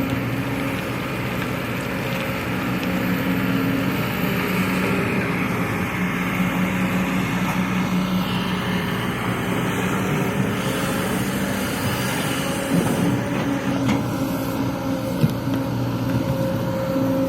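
Heavy diesel engine of an excavator or dump truck running steadily, with a couple of short sharp knocks late on.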